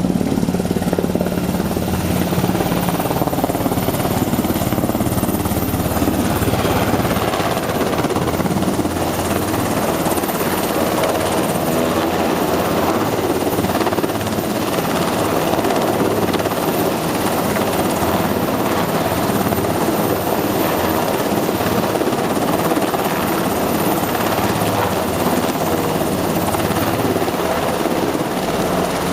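Black Hawk helicopter running steadily and loudly: rotor and turbine engines at close range, with a steady low tone in the first few seconds.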